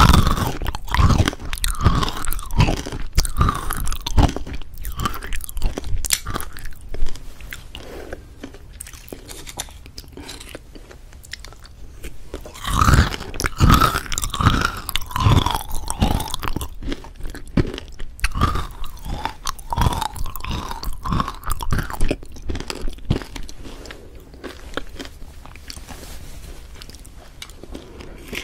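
Crunching and chewing sounds: clusters of sharp crunches, with quieter stretches in between.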